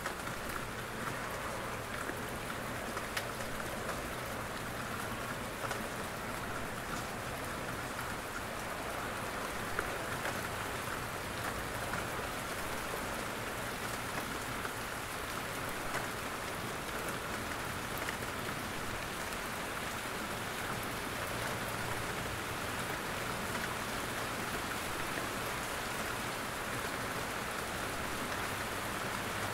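Steady rain falling in a forest, drops pattering on leaves and the ground, with scattered individual drops standing out.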